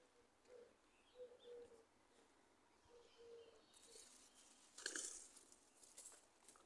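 Near silence with a few faint, low, cooing bird calls in short repeated notes. A brief rustle or scuff comes about five seconds in.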